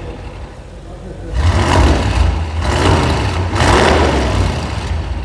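2018 Audi RS6's twin-turbo V8 through a full Milltek exhaust, revving in three loud surges, the first about a second in, over a deep low rumble.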